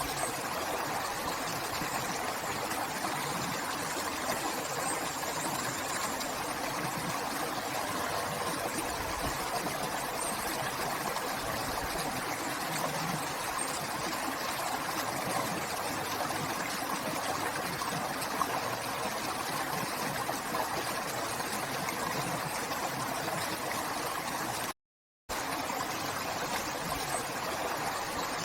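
River water flowing: a steady rushing and trickling. It cuts out abruptly for about half a second near the end, then resumes.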